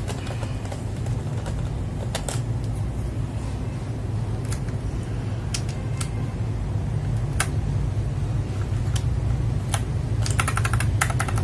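Keystrokes on an FL-Esports MK870 mechanical keyboard with Kailh Box Brown tactile switches: scattered single clicks, then fast continuous typing near the end. A steady low hum runs underneath.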